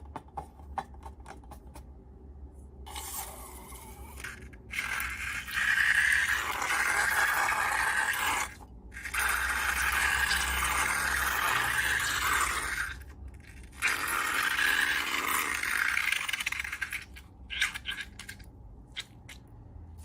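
Slime-making handling sounds: light clicks, then three long, noisy scraping strokes of several seconds each, then more scattered clicks near the end.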